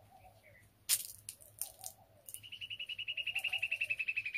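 A bird's rapid, even trill of high notes starts about two seconds in and falls slightly in pitch, over a dove's soft low cooing that repeats every second or so. A sharp click, followed by a few softer ticks, comes about a second in.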